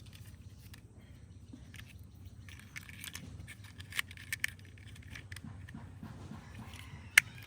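Faint clicks and light clatter of plastic toy parts being handled, a few close together midway and one sharp click near the end, over a low steady hum.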